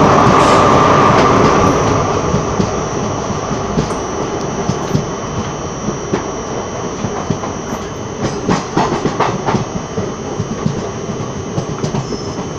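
Train running on the rails: a loud rush as a locomotive passes close by in the first two seconds, then a steady rumble of wheels on the track. Clicks of wheels over rail joints come through, with a quick run of them about eight to nine and a half seconds in.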